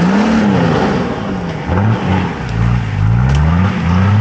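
Off-road 4x4's engine revving up and dropping back about four times, working under load.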